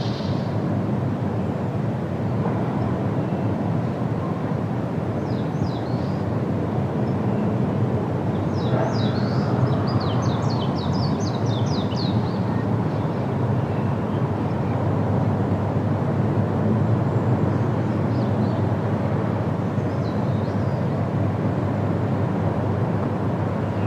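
Steady wind rushing through forest leaves. A bird calls over it in quick series of short high chirps, briefly about five seconds in and in a longer rapid run around ten seconds in, with a few faint chirps later.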